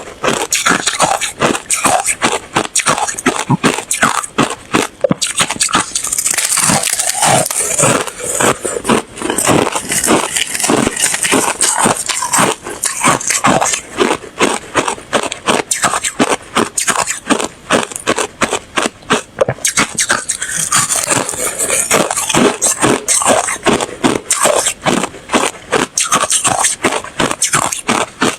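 Ice being bitten and chewed close to the microphone: a dense, unbroken run of loud crunches, several a second.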